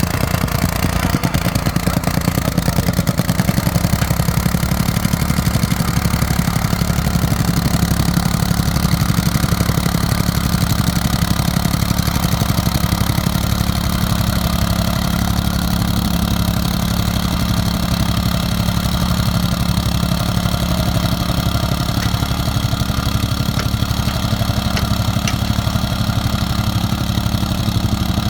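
An engine idling steadily, settling in the first few seconds, with a few faint clicks near the end.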